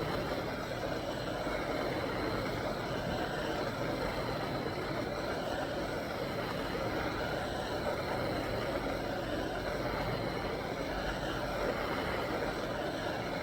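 Handheld gas torch burning steadily with a continuous hiss of flame, heating a silver wire to soften it until it glows red.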